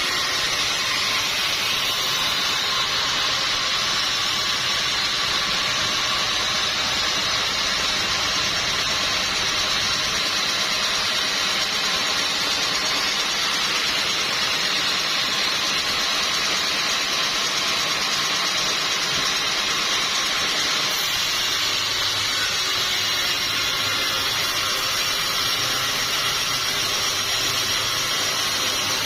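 Sawmill machinery running steadily: an unbroken, even mechanical noise with faint steady tones.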